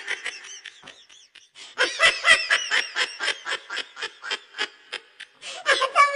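Laughter in a fast string of short ha-ha pulses, about five a second, followed near the end by a held, drawn-out voiced sound.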